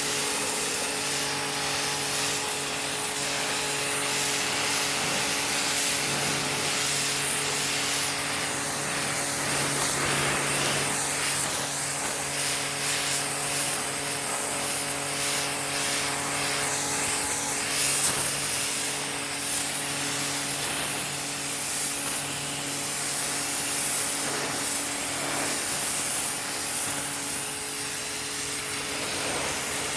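High-pressure washer motor running with a steady hum while its water jet sprays hard against stone, scouring off thick moss.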